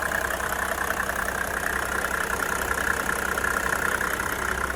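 1995 Mercedes-Benz E300 Diesel's inline-six diesel engine idling steadily.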